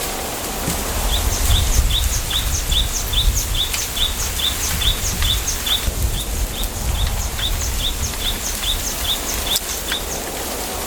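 A small bird calling a steady run of short, high chirps, about three a second, over a low wind rumble and the hiss of a bamboo forest.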